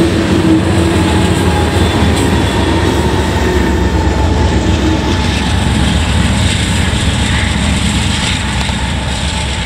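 Diesel locomotives at the rear of a freight train passing close by, their engines droning over the rumble of the train. About five seconds in the engine tones fade, leaving a steady low rumble.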